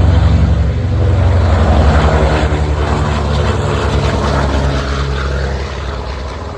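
B-29 Superfortress's four radial piston engines and propellers droning at power, a loud, steady, low-pitched drone. It is loudest in the first couple of seconds and fades toward the end.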